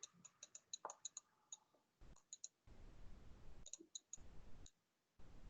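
Near silence with a scatter of faint, short clicks.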